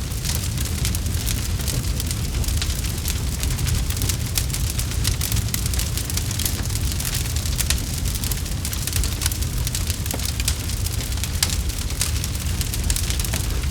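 Campfire burning with dense, continuous crackling and popping over a steady low rumble of flames.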